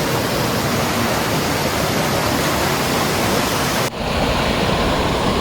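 Steady rushing of a large waterfall, Dudhsagar Falls, as a dense even noise, with a brief drop at a cut about four seconds in before it carries on.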